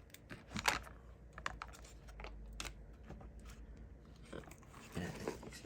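Irregular small clicks and taps of craft supplies being handled and set down on a tabletop, one louder knock just under a second in, over a faint low hum.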